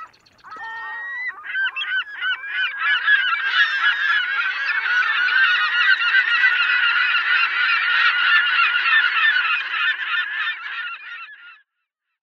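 A large flock of birds calling all at once, many short calls overlapping in a dense, agitated chorus as the birds react to a drone overhead. It builds over the first two seconds and cuts off suddenly near the end.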